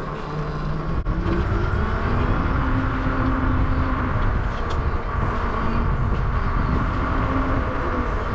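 Steady rumble of wind and road noise while riding a bicycle along a street, with a faint low motor-like hum from about two seconds in and a single click about a second in.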